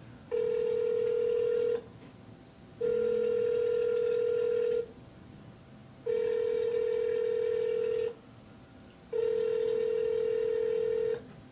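Phone ringback tone heard through the phone's speaker while a call rings out: four long beeps at one steady pitch, each about two seconds long, about a second apart.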